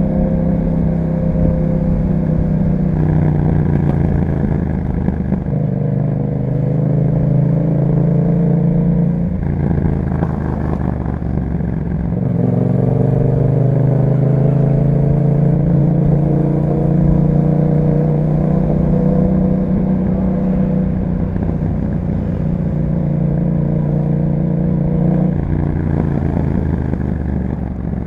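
2021 Yamaha MT-07's 689 cc parallel-twin engine running through an Akrapovic exhaust with a dB killer while riding. The engine note rises and falls with the throttle, with a change in revs about ten to twelve seconds in.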